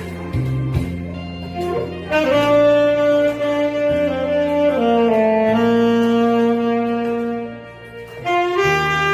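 Saxophone playing a slow melody of long held notes over an accompaniment with steady bass notes. The saxophone comes in about two seconds in, breaks off briefly near the end, and comes back in.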